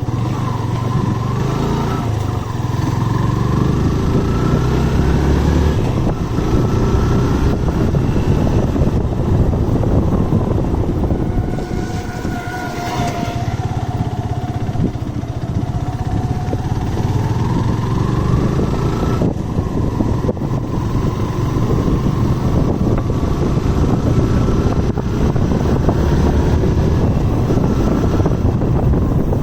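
Motorcycle riding along a road: a steady engine note with pitch rising and falling, under a heavy, even rumble.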